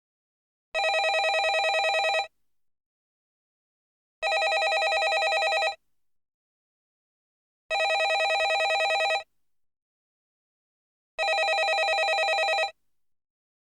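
Landline telephone ringing: four rings of about a second and a half each, one every three and a half seconds, with silence between them.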